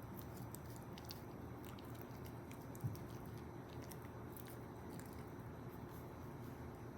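Toy poodle puppy chewing food, with faint scattered small clicks and one short low thump about three seconds in.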